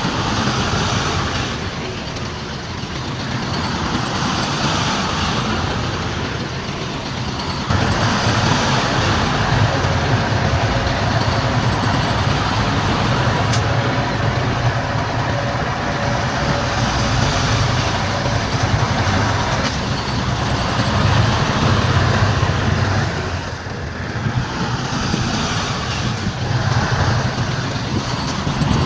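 Heavy diesel earthmoving machinery running continuously, a bulldozer and dump trucks working. The engine noise steps up sharply about eight seconds in and stays louder, as if under heavier load.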